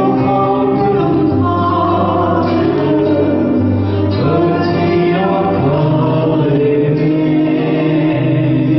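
A song with voices singing over an instrumental accompaniment; held bass notes change every second or two.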